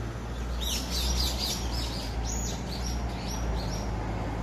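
A songbird calling a quick run of short, high notes, each sliding down in pitch, about four or five a second for some three seconds.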